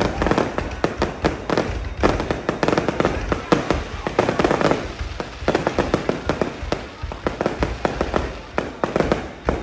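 Aerial fireworks display going off without pause: a dense run of crackles and pops over repeated heavier bangs.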